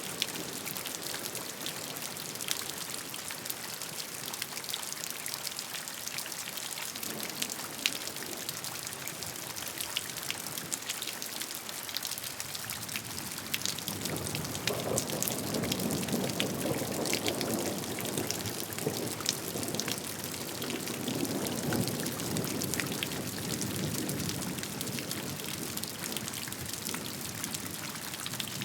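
Steady rain, a constant hiss with many sharp individual drops striking a surface. About halfway through, a deeper rushing swells up, then eases off again toward the end.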